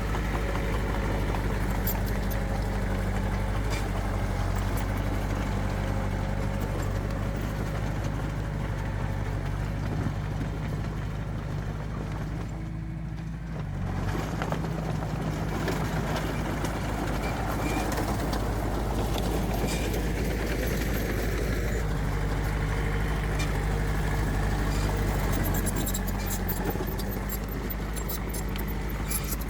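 Diesel engines of earthmoving machinery running steadily, the sound dipping briefly about halfway through.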